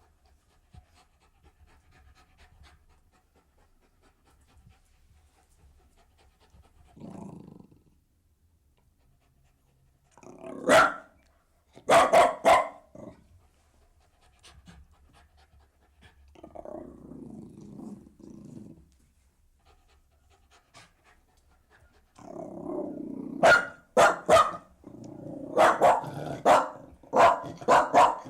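Jack Russell terrier barking in short, sharp bursts: a single bark about eleven seconds in, then three quick barks. Low growls follow. Near the end comes a rapid run of barks mixed with growling.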